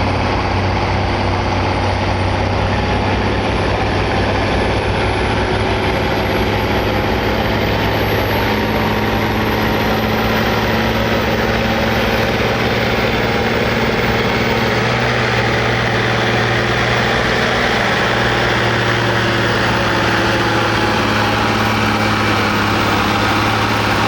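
Heavy pulling-vehicle engine running hard and steady through a pull run, with a thin high whistle that climbs slowly in pitch over the first half.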